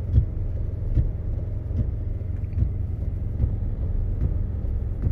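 Low rumble of road and engine noise inside the cabin of a Ford F-150 pickup driving slowly on a snow-covered road, with a soft knock about every second.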